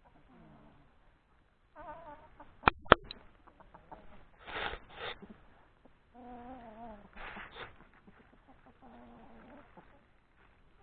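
Chickens clucking and calling in a flock, a series of short wavering calls with a couple of harsher squawks. Two sharp knocks about three seconds in are the loudest sounds.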